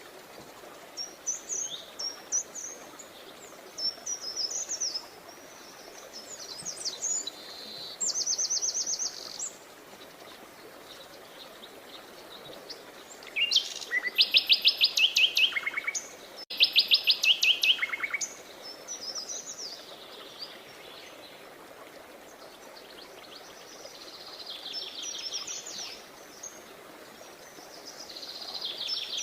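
Wild songbirds chirping and singing over a faint steady hiss. The loudest part, about halfway through, is two quick trills of evenly spaced notes that fall in pitch.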